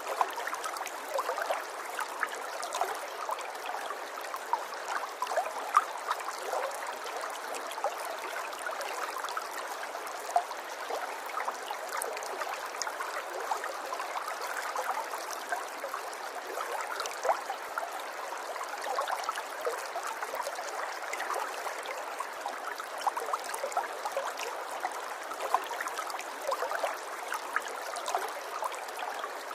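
River water flowing and trickling, a steady babble with many small splashes and gurgles.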